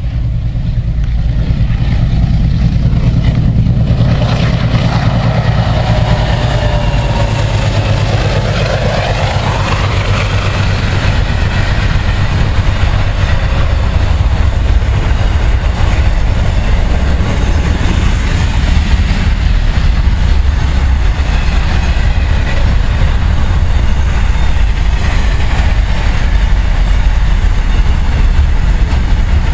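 Diesel locomotives of a freight train passing close by, a heavy low rumble with a whine that shifts in pitch as they go past about four to ten seconds in. After that, a long string of container wagons rolls by with steady wheel-on-rail noise.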